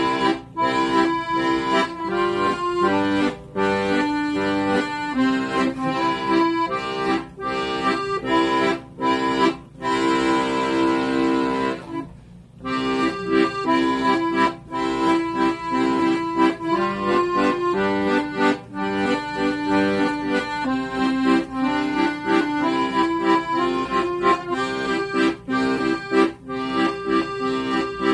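Accordion playing a tune: a melody line over held lower notes, with a brief break in the playing about twelve seconds in.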